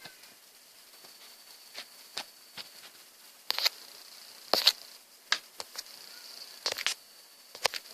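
Irregular light clicks and taps, a few of them sharper, about three and a half and four and a half seconds in, typical of a small plastic gadget being handled on a work surface.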